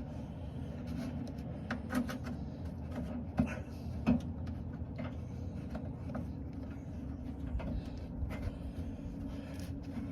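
A few scattered light clicks and knocks from a bolt and parts being worked by hand on a car's front end, the clearest about two and four seconds in, over a steady low hum.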